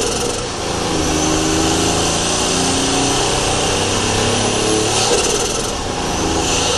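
Daihatsu Charade GTti's turbocharged three-cylinder engine pulling under load, heard from inside the engine bay. The revs climb steadily, with brief drops in level about half a second in and again near the end, and a short hiss around five seconds in.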